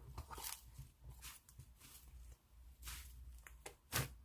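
Slime being squeezed and poked by hand: faint, irregular small clicks and wet pops, with a sharper pop about four seconds in.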